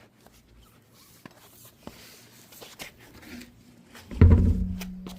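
Light clicks and handling noise, then a loud metallic clank about four seconds in that leaves a ringing tone for over a second: a metal object being set down or knocked while working on the brakes.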